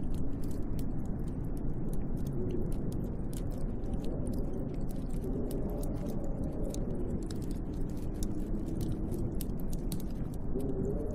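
Snowstorm wind blowing outside a window: a dense low rumble with a faint wavering whistle that rises and falls, and fine crackling ticks scattered throughout.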